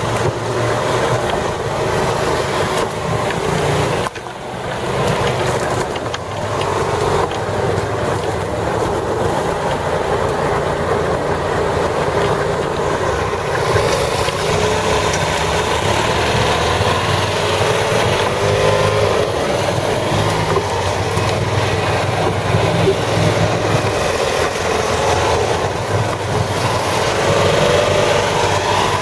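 Engine of an amphibious six-wheel ATV running steadily as it drives, dipping briefly about four seconds in.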